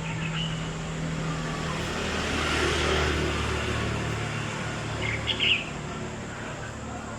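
A motor vehicle passing, its noise swelling to a peak about midway and then easing off, with a low engine hum underneath. Short bird chirps come just after the start and again about five seconds in.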